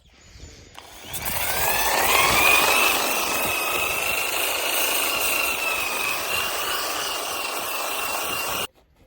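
Electric power sander starting up with a rising whine, then running steadily as it sands the boat's hatch; it cuts off suddenly near the end.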